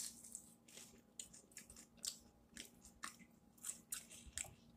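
Faint close-up chewing: a person's mouth working on food, with irregular short clicks a few times a second.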